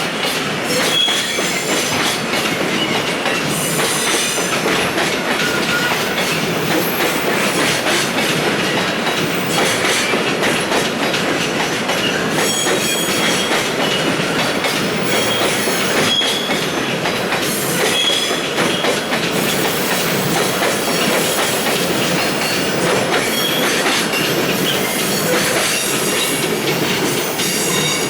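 Freight train of Koki container wagons rolling past at low speed, its wheels clacking over the rail joints with brief high squeals from the wheels.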